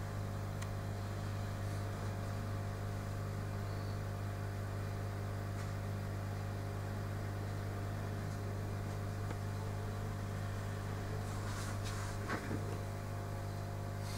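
Steady low electrical hum made of several even tones, with a click at the start and a few faint clicks about twelve seconds in.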